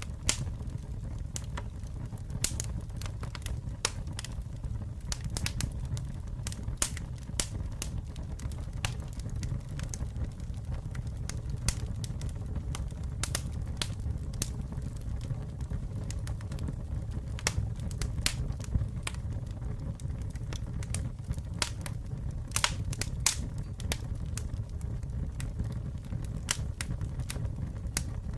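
Wood campfire burning: a steady low rumble of the flames with frequent irregular sharp crackles and pops.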